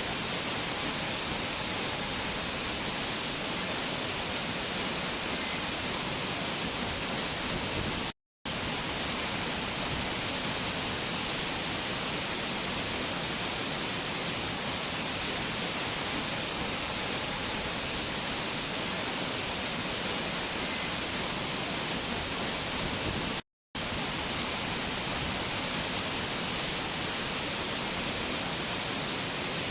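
Waterfall: a steady, even rush of falling water with a strong hiss, cut off to silence for a split second twice.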